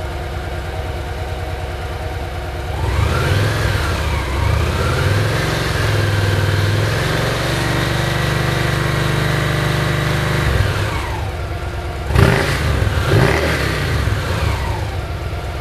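Victory Cross Country V-twin on stock mufflers idling, then revved up about three seconds in and held steady at around 3,000 rpm for roughly eight seconds before dropping back to idle. Two quick throttle blips follow, then it settles back to idle.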